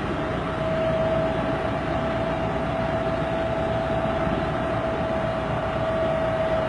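Diesel train running slowly at walking pace, a steady engine rumble with a steady high whine over it.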